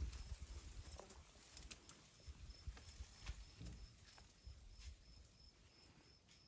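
Near silence: faint outdoor ambience with low rumble, a few faint clicks, and a faint high-pitched pulsing about three times a second.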